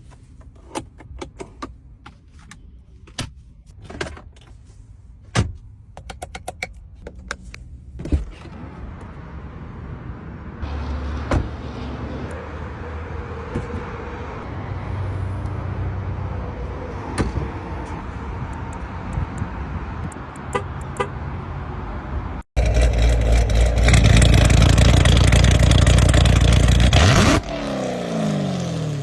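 Chevrolet Corvette C7 Z06's supercharged 6.2-litre V8 running, after a string of sharp clicks at the start. It runs steadily, then is revved hard for about four seconds, and the revs fall away near the end.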